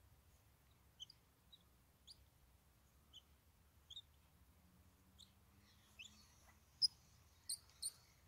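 Faint, short, high-pitched bird chirps about once a second, with three louder, sharp high sounds near the end.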